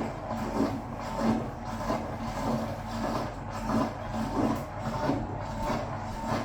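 Hoover Automatic 820 washing machine running at the start of its spin cycle, the drum turning gently: a steady motor hum with an uneven pulsing about two to three times a second.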